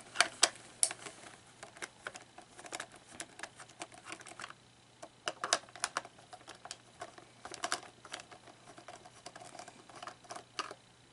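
Irregular small clicks and taps of hard plastic parts being handled while an animatronic figure's gearbox is opened up for a gear replacement.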